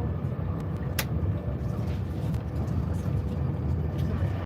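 Steady low rumble of a train running at speed, heard inside the passenger coach, with one sharp click about a second in.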